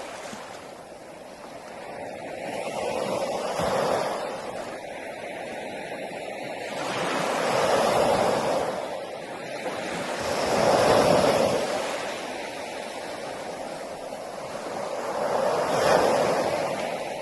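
Sea waves breaking on a shore, a rushing wash of surf that swells and falls back about four times.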